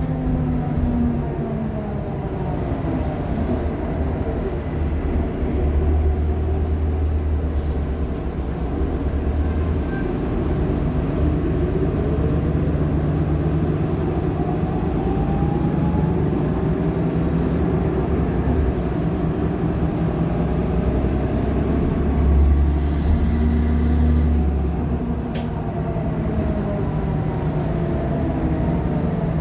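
Interior of a Nova LFS Artic hybrid bus under way: the Cummins ISL9 diesel and Allison H50 EP hybrid drive running, swelling under load twice, with a drive whine that falls near the start and rises in the middle. A thin high-pitched squeal holds through much of it.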